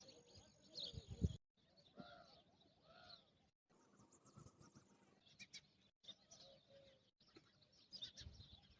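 Faint bird calls and chirps, scattered short high notes with a few arched calls around two and three seconds in.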